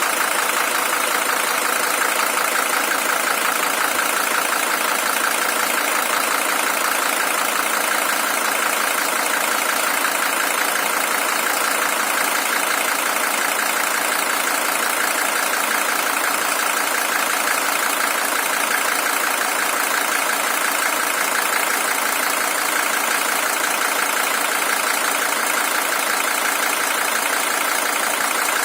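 Mercedes-Benz OM617 five-cylinder diesel engine, original with 620,000 km on it, idling steadily with no change in speed.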